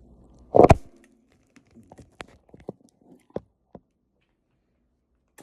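A loud thump about half a second in, then a few seconds of scattered small crunches and clicks of someone eating.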